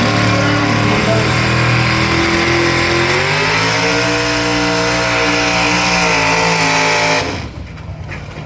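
Competition pulling vehicle's engine running flat out under load with a steady high drone. Its pitch climbs about three seconds in and holds, then the engine cuts off abruptly near the end.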